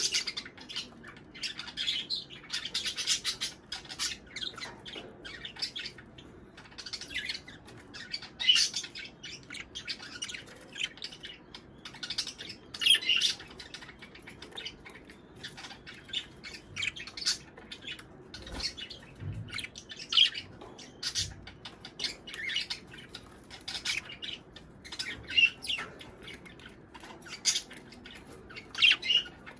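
Budgerigars chattering and warbling in quick, irregular chirps and squawks: budgie breeding-season calls.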